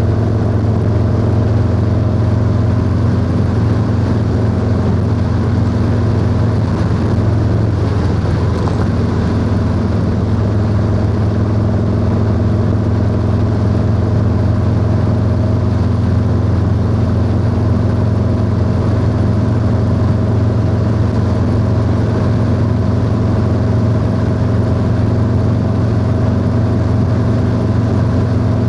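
Harley-Davidson Low Rider S V-twin engine running at a steady cruise through a 2-into-1 exhaust, heard from the rider's seat. The engine note shifts briefly about eight seconds in, then settles back to an even drone.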